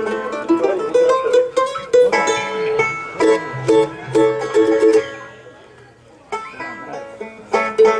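Mandolin and banjo picking loose notes and short runs rather than a song, with a short pause about three-quarters of the way through before the picking resumes: players noodling while the mandolin is brought up in the sound mix.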